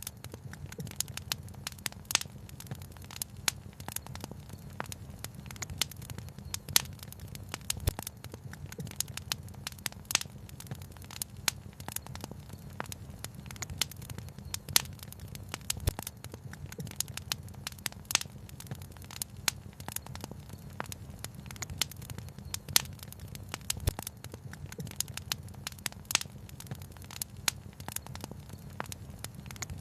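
Wood fire crackling and popping continuously, many small sharp snaps and an occasional louder pop, over a steady low rumble.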